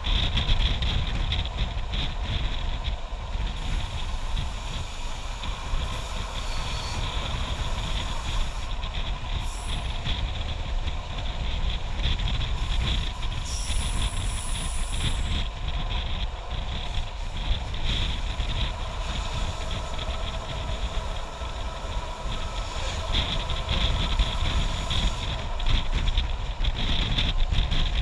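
Moving passenger train heard from an open window: a steady rumble of the carriages running on the rails, with wind buffeting the microphone.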